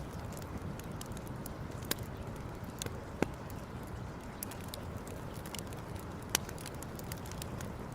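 Campfire crackling: scattered sharp snaps and pops over a steady low rush, with the loudest pops about two, three and six seconds in.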